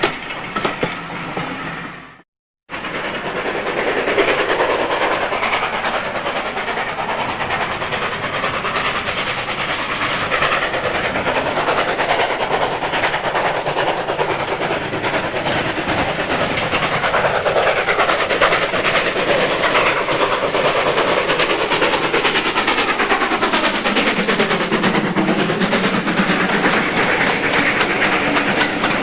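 A heritage railway train running past, its wheels and running gear making a steady clatter on the track. The sound cuts out briefly about two seconds in, then resumes, with a slowly shifting, swishing tone near the end as the train moves along.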